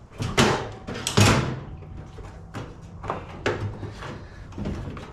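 A series of irregular clunks and knocks as suspension struts are fitted to a washing machine's drum inside its sheet-metal cabinet, the loudest just over a second in.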